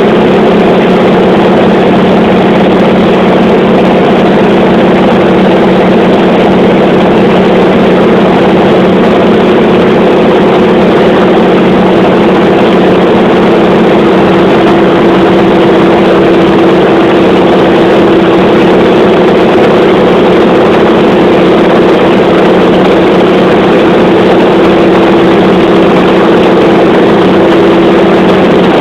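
Loud, steady drone of a radial piston aircraft engine. It holds one constant pitch, without the rise and fall of an aircraft passing by.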